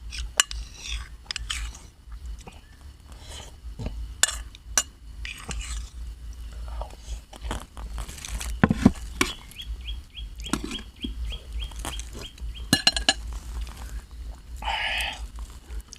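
Close-up eating sounds: chewing and crunching of spicy seafood papaya salad, with scattered mouth clicks and smacks. Birds chirp in the background, with a short run of quick chirps about ten seconds in and a brief call near the end.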